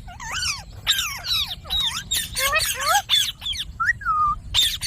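Indian ringneck parrot chattering: a fast run of short whistles and squawks that swoop up and down in pitch, some of them speech-like.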